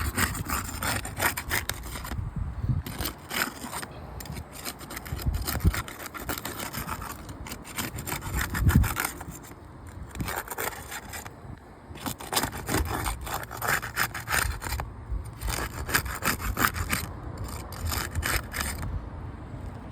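Asphalt roof shingle being worked loose from its seal strip: irregular scraping and rubbing strokes, with short pauses between them.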